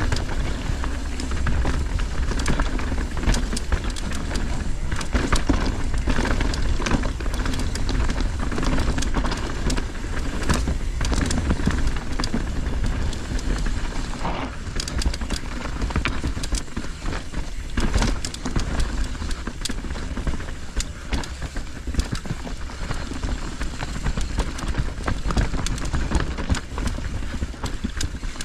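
Mountain bike riding down a rough trail: wind rushing over the microphone with a steady low rumble, and the tyres and bike rattling in many quick knocks and clicks over dirt and rocks.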